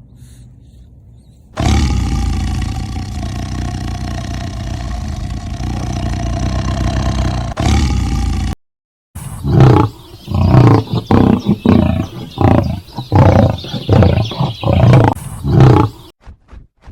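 Loud animal calls: one long held call lasting about seven seconds, then, after a brief break, a quick run of separate grunting calls, about two a second.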